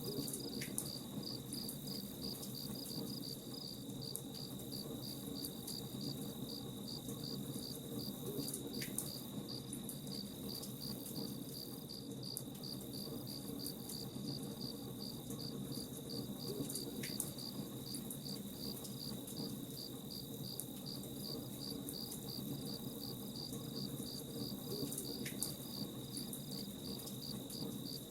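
Crickets chirping in a steady rapid pulse, about four chirps a second, over a low steady rumbling noise, with a brief short call recurring about every eight seconds.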